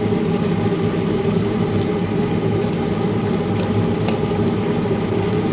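A steady machine hum, with a few faint ticks and taps over it.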